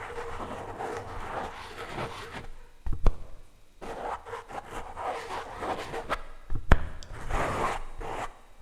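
Plastic utensils scraping and rubbing against a microphone, in uneven passes about a second or two long, with a few sharp clicks as they knock against it, the loudest about three seconds in and again near seven seconds.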